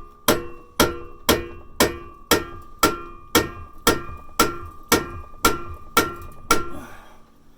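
Hammer blows on a heavy screwdriver driven into a rusted exhaust pipe joint inside a muffler, thirteen steady strikes about two a second, each leaving a short metallic ring.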